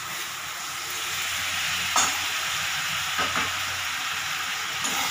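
Spiced tomato-and-ginger masala sizzling steadily as it fries in oil in an aluminium kadai, cooked down until the oil has separated. A metal spatula scrapes and knocks against the pan a few times.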